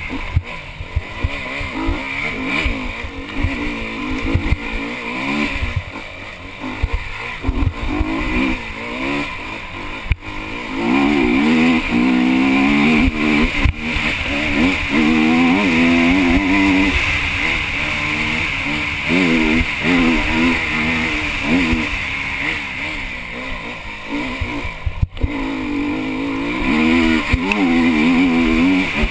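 Honda enduro motorcycle engine heard from the rider's helmet, revving up and down constantly as he accelerates and backs off along the trail, with rough low rumbling from the bumpy ground.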